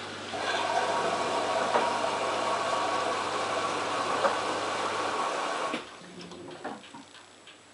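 LG F1443 washing machine running mid-cycle: a loud, steady rushing noise with a faint whine in it starts just after the beginning and cuts off abruptly about six seconds in, followed by a few faint clicks. A low steady hum underneath stops shortly before.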